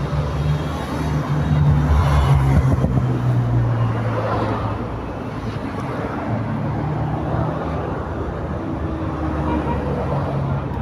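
Motor vehicle engine running close by amid street traffic, with a steady low hum that swells loudest a second or two in and then settles.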